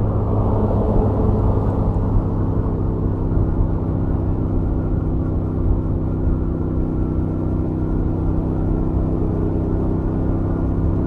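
Stock Royal Enfield Interceptor 650's 648 cc parallel-twin engine and exhaust running at a steady highway cruise, with an even, unchanging engine note over a low rumble.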